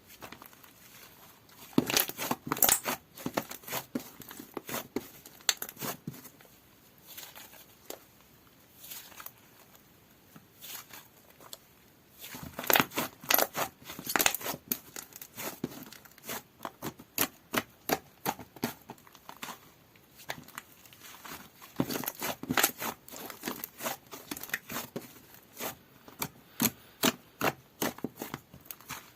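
Slime being squished, poked and stretched by hand, giving quick runs of wet clicks and crackling pops in bursts, with quieter pauses between.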